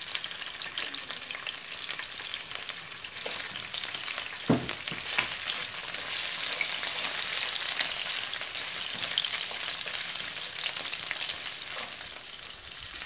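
Chicken pieces sizzling as they shallow-fry in hot vegetable oil in a non-stick pan, with a spoon scraping as they are turned. There is a knock on the pan about four and a half seconds in, and the sizzle is louder for a while after it.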